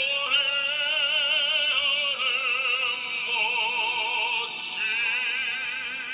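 Background music: operatic-style singing held on long notes with a wide vibrato, moving to a new note every second or so.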